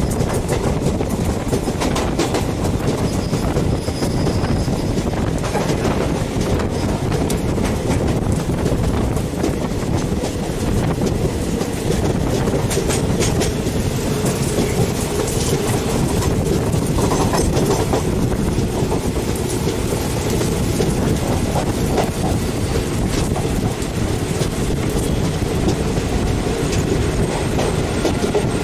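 Passenger train running at speed, its wheels clattering over the rail joints in an irregular stream of clicks over a steady rumble, heard from the open doorway of a moving coach.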